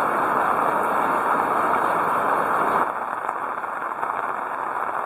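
Heavy rain falling in a steady hiss, a little quieter from about three seconds in.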